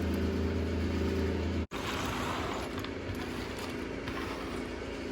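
Steady low mechanical hum of a machine running in the background. It breaks off abruptly about a second and a half in, then carries on a little quieter with more hiss.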